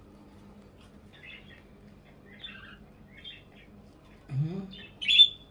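Pet budgerigars chirping and twittering softly. A short low rising sound comes about four seconds in, and a loud sharp chirp follows just before the end.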